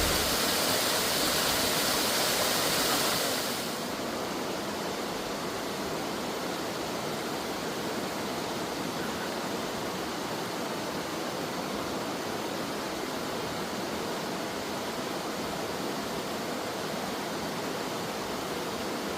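Mountain stream water rushing steadily over rocks, a continuous even hiss. About three and a half seconds in it drops a little quieter and less bright, then runs on unchanged.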